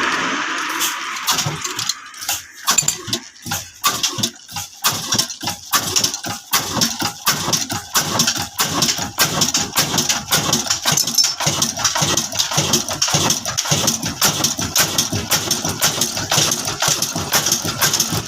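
Heavy Hornsby-type single-cylinder diesel engine starting: a rushing noise dies away in the first second, then separate firing beats begin at about two a second and speed up until the engine settles into a steady fast run.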